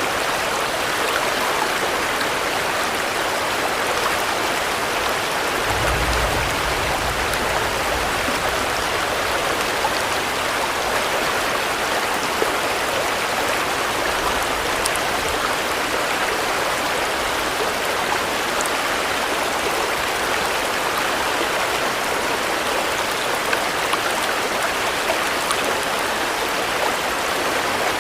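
Steady, dense rainfall with an even hiss, with a low rumble about six seconds in and a fainter one about halfway through.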